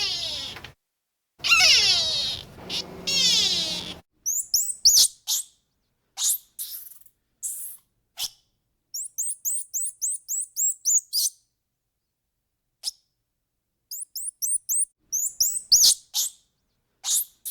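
A cat meows, a long wavering call and then a second one, followed by a small bird chirping: single high-pitched chirps and quick runs of about eight chirps a second, with short silences between.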